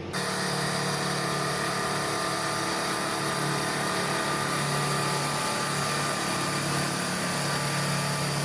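Heavy truck's engine running at a steady pitch. It cuts in suddenly at the start.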